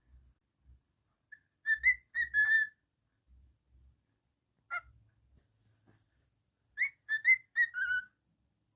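Cockatiel whistling: a quick run of short chirpy notes about two seconds in, a single note a little before the middle, and another quick run of notes near the end.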